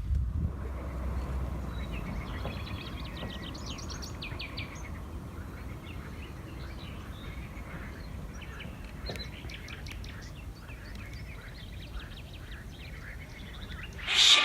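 Small birds singing, with quick runs of high repeated chirps and scattered calls, over a steady low background rumble.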